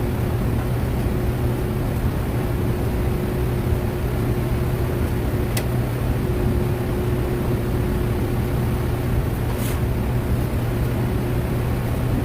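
Steady machine hum with a low drone and a faint higher tone underneath, broken by two brief sharp clicks, one about halfway through and one later.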